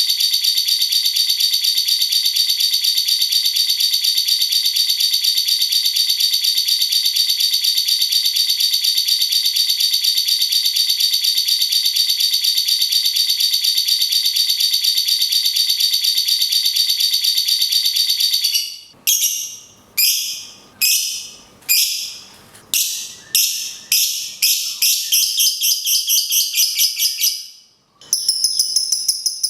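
Lovebird's long, fast, buzzing trilled chatter, unbroken for most of the clip. Near the end it gives way to a run of short, sharp bird calls that start about one a second and speed up. After a brief break the rapid chatter starts again.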